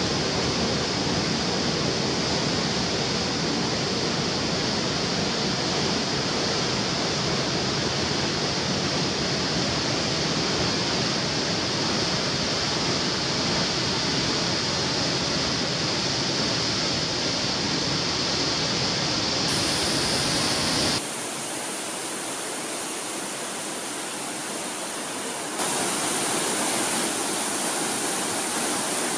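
Waterfall rushing steadily. The sound changes abruptly at cuts between shots: about two-thirds of the way in it drops to a quieter, thinner rush, then comes back louder near the end.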